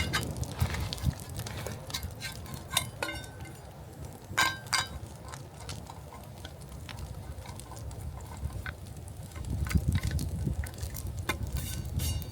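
A utensil stirring and scraping in metal cookware, with scattered clinks, a few ringing briefly, over a low steady rumble.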